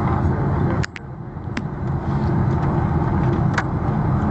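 Steady road and engine rumble of a moving car, heard from inside the cabin. It drops sharply about a second in and builds back up within a second, with a few faint clicks.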